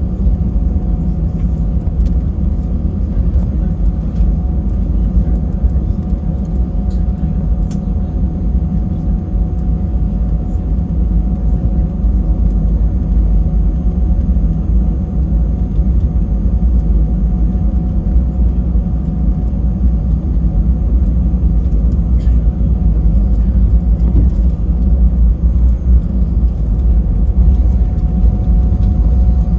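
Inside the cabin of an Airbus A320-200: a steady, loud low rumble of the engines and airframe with a constant hum above it, growing a little louder near the end.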